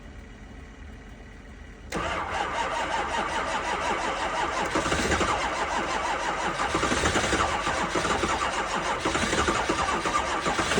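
Starter cranking a 2005 Ford 6.0 L Power Stroke V8 turbo diesel, kicking in suddenly about two seconds in and turning the engine over in a steady, even rhythm without it catching: a cold no-start at 15°F that the owner puts down to the battery.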